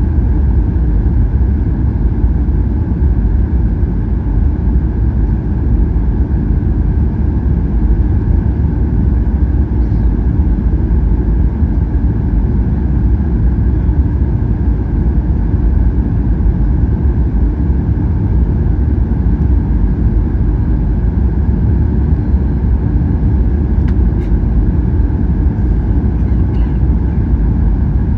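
Cabin noise inside a Boeing 737-800 airliner: a steady low rumble of engines and airflow, with a steady higher hum over it.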